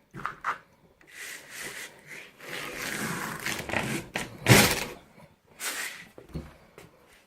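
Wooden door being swung back and forth with its bottom edge scraping over a sheet of grit-80 cloth-backed sandpaper on the floor: several rasping sanding strokes, the strongest about halfway through, with a couple of light knocks at the start. The door is being sanded down where it rubs the floor.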